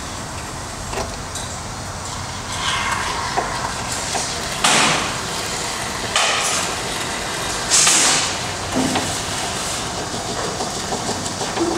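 Urethane foam gun spraying expanding foam into wall gaps, with several hissing spurts of varying strength, three of them louder in the second half.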